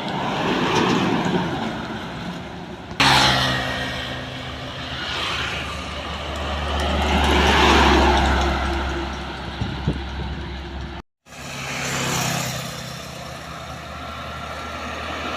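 Trucks driving past one after another, engine hum and road noise swelling and fading with each pass. The sound jumps abruptly about three seconds in and drops out briefly near eleven seconds where clips are joined.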